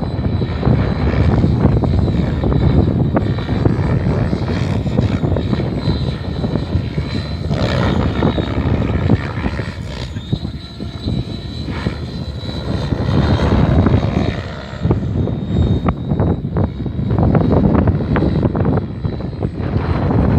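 Helicopter flying close by: a loud, fluctuating rotor and engine rumble with a thin steady high whine over it.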